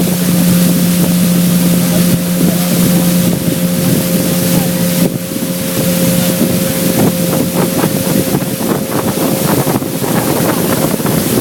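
Boat's outboard motor running steadily under way upriver, a constant droning hum, with wind buffeting the microphone.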